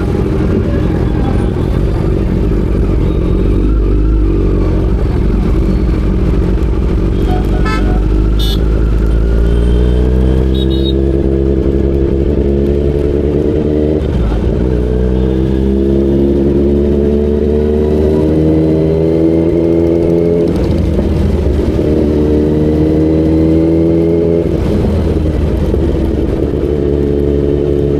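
Kawasaki Z900 inline-four engine accelerating through the gears. After a low rumble, its pitch climbs steadily and falls back at each of three upshifts.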